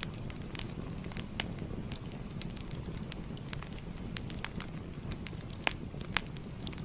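Fire crackling: a steady low rumble of flames with frequent irregular sharp pops and snaps.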